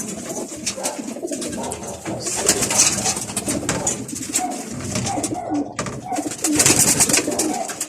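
Many domestic pigeons cooing at once, overlapping calls with no pause. Louder bursts of rustling noise come twice, a few seconds apart.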